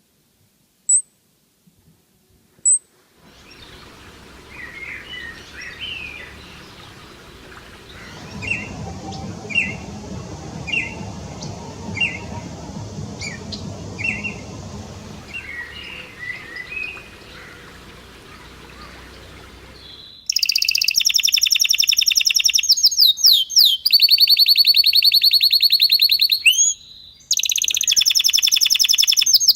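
Birds calling in the open: a few short high chirps, then a run of short chirps repeated about once a second over outdoor background noise. About twenty seconds in, a much louder, high-pitched call starts, repeating rapidly.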